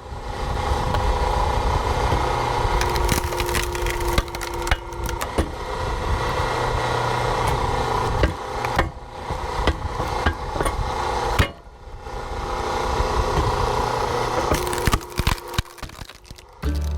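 An engine running steadily, with scattered knocks and clatter; the sound breaks off abruptly twice, about halfway through and a few seconds later.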